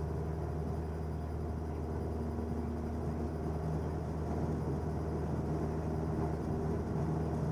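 A 1977 Cessna 172N's four-cylinder Lycoming engine and propeller running steadily at full throttle during the takeoff roll and lift-off, heard as a steady low drone.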